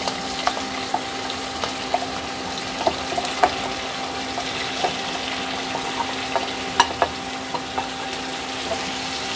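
Pieces of peeled taro root (arbi) tipped from a plate into hot mustard oil in a non-stick kadai, sizzling steadily, with scattered clicks and pops as pieces land and the oil spits.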